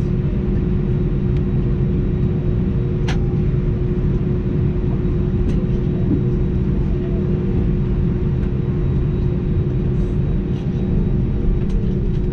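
Steady low rumble and hum of an Airbus A319's cabin noise, with a sharp click about three seconds in.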